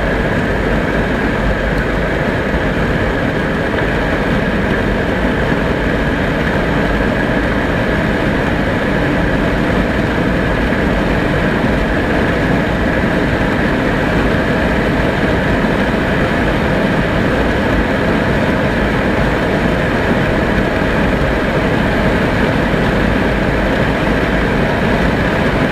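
Daewoo Nubira II car at speed during a hard acceleration run: a steady, loud drone of engine, road and wind noise.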